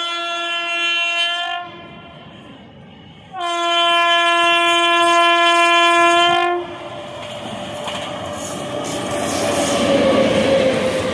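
WAP-7 electric locomotive's horn sounding a chord of several notes. The first blast stops about a second and a half in, and a second long blast runs from about three and a half to six and a half seconds. Then the express train runs past, its wheels clattering over the rails.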